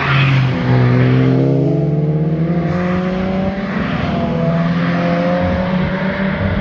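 Car engine accelerating along the road, its exhaust note climbing steadily in pitch, then climbing again through a second pull in the second half. A steady low engine drone runs underneath.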